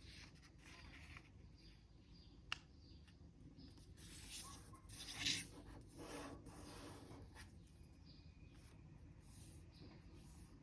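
Faint rustling and rubbing of a sheet of origami paper being folded and creased, with a sharp tick about two and a half seconds in and a louder rustle around the middle.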